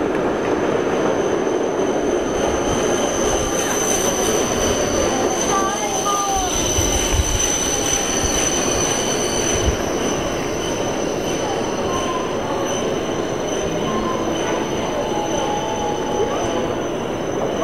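Hokuriku Shinkansen train running slowly along the platform past the listener. Its wheels and running gear make a steady rush, with a steady high-pitched whine that eases after about ten seconds as the train draws away.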